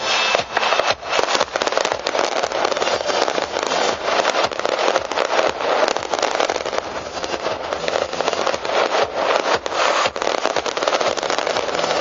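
Fireworks display: a dense, continuous barrage of bangs and crackles, with no let-up.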